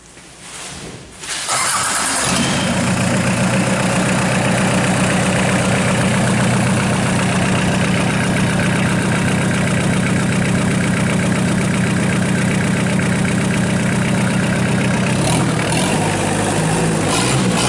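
Hyundai D4BX four-cylinder diesel engine running outside the car: it is cranked and catches about two seconds in, then runs steadily. Its note changes about fifteen seconds in.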